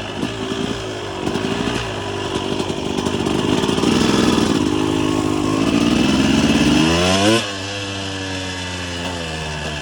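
Motocross bike engine under throttle, getting louder over several seconds. Its pitch climbs sharply, then the throttle closes at about seven and a half seconds and the engine drops to a quieter, steady note.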